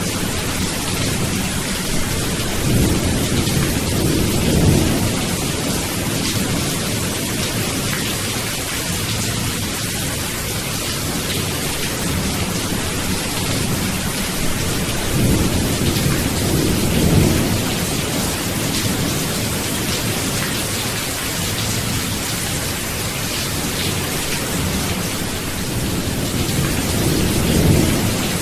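Steady heavy rain hissing, with low rolls of thunder rumbling up three times: a few seconds in, midway and near the end.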